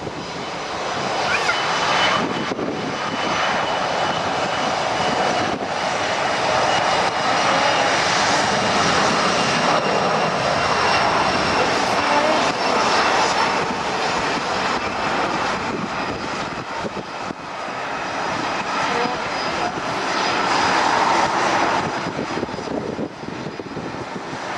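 Airliner engines running loud and steady: a broad rushing noise with a faint high whine, building about two seconds in and easing off near the end.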